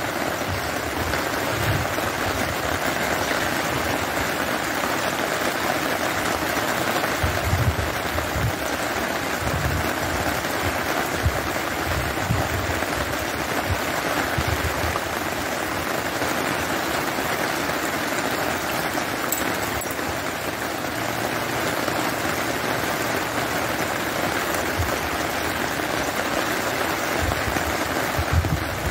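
Steady rain falling, a constant even hiss, with brief low rumbles now and then.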